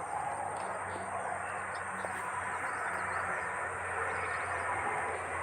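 Steady background noise with a low hum underneath and a faint high whine; no distinct events.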